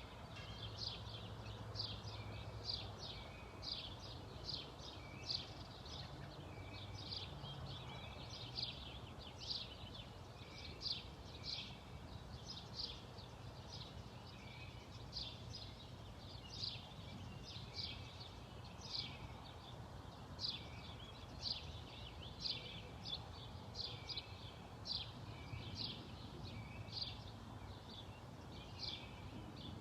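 A bird repeating a short, sharp chirp a little more than once a second, over a steady low background hum.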